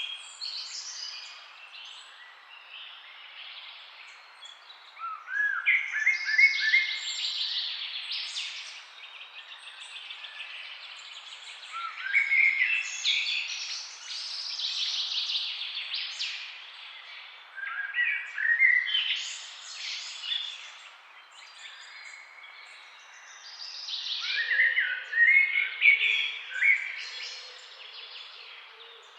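Birds singing and chirping in repeated bursts of quick, high, gliding notes about every six seconds, with quieter chirps between, over a faint steady background hiss.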